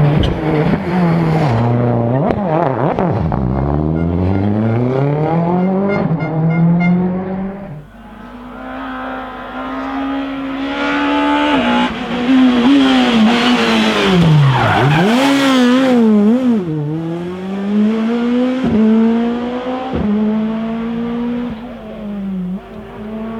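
Rally cars driven flat out, engines revving up through the gears with the pitch climbing and dropping at each shift, with some tyre squeal. About eight seconds in the sound cuts to another car, which revs and lifts repeatedly.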